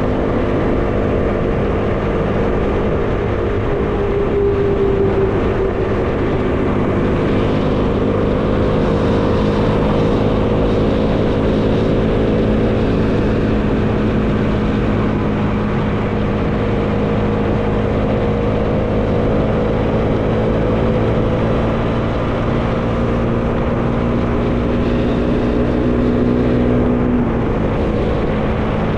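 Bajaj Dominar 400's single-cylinder engine running steadily at road speed, its note slowly rising and then dropping suddenly near the end, with wind noise rushing over the microphone.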